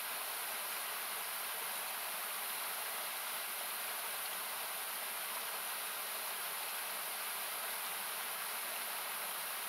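Steady rushing of a mountain river or small waterfall, equalised so that it comes through as an even hiss with its low end cut away.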